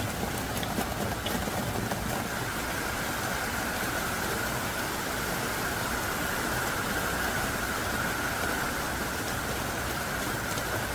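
Heavy rain falling in a steady downpour, an even hiss of drops on surfaces without a break.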